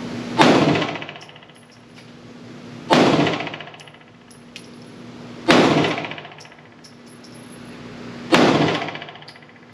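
Four 9mm pistol shots from a PSA Dagger compact, a striker-fired Glock-pattern pistol, fired slowly about two and a half to three seconds apart. Each shot rings on for about a second in the echo of an indoor range.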